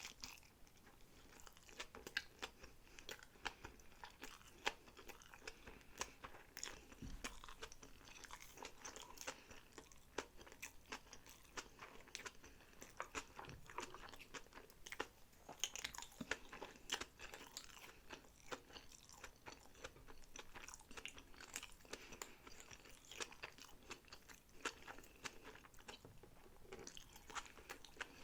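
Close-miked chewing of sushi rolls: a dense, continuous run of small mouth clicks, smacks and soft crunches.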